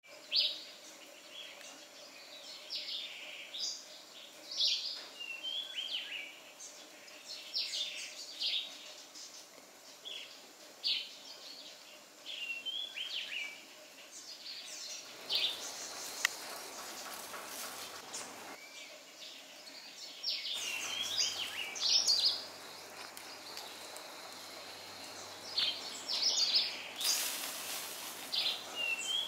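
Several birds calling repeatedly: short, high-pitched chirps and whistled notes scattered throughout, over a steady outdoor background.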